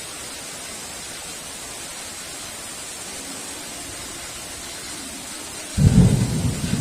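Steady hiss of heavy rain, then near the end a sudden loud clap of thunder that breaks into a low rumble.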